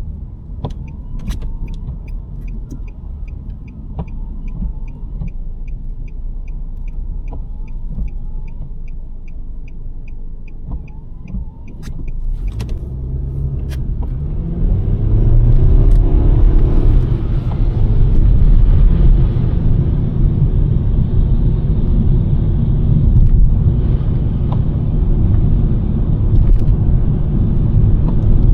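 Inside the cabin of a 2023 Nissan Sentra: the turn-signal indicator ticks steadily, about three ticks a second, over a low engine and road rumble. After about twelve seconds the ticking stops with a couple of clicks, and the rumble grows louder as the car gathers speed and tyre and road noise builds.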